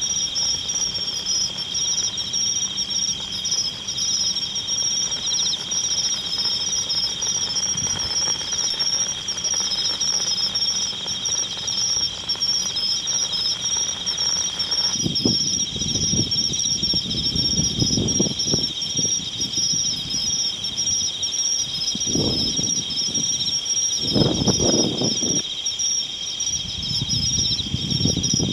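A steady, high-pitched chorus of singing insects with two continuous shrill pitches. From about halfway through, irregular low rumbling bursts come and go.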